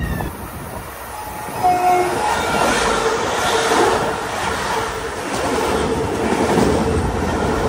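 Long Island Rail Road train passing, wheels running over the rails, with short tones about a second and a half in and then a steady tone held through most of the pass.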